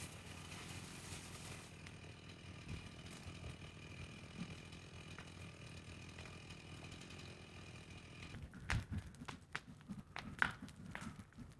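Low steady background rumble, then about eight seconds in a series of irregular crunching footsteps begins.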